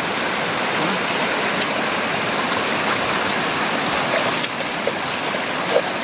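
Steady rush of water from a small waterfall and stream, with a few light clicks over it.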